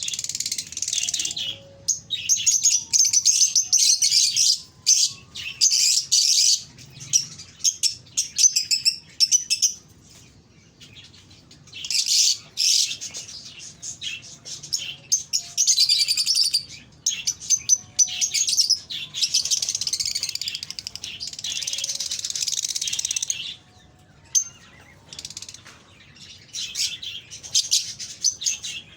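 Small birds chirping and chattering in long bursts of rapid, high-pitched twittering, broken by a few short pauses.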